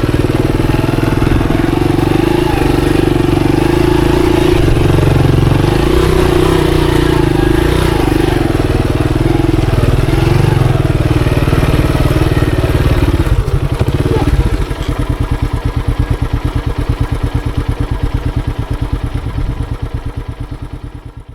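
Monarch Axis 125 motorcycle engine running steadily as it is ridden, then settling to an idle with an even, rapid putter about two-thirds of the way through, and fading out near the end.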